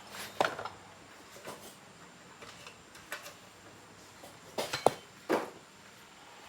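Scattered clinks and knocks of metal tools and parts being handled during motorbike repair work, a handful of separate strikes with the loudest cluster about two thirds of the way through.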